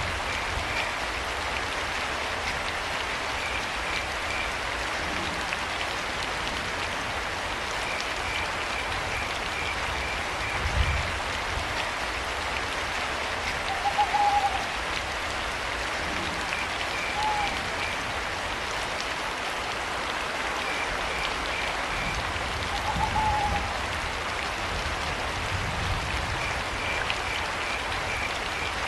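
Steady rain, with crickets chirping in short trains every few seconds and an owl hooting three times in the middle of the stretch. Low rumbles come and go underneath.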